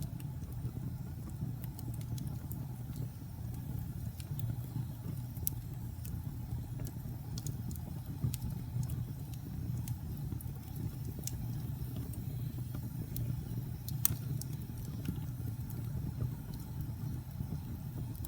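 Wood fire burning in a fireplace: a steady low rumble with scattered sharp crackles, a few of them louder.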